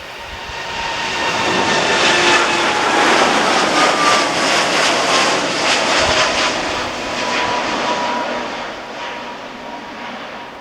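Jet airliner taking off at full thrust and passing by: the engine noise swells for a few seconds, peaks, then fades, with a whining tone that drops slightly in pitch as it goes past.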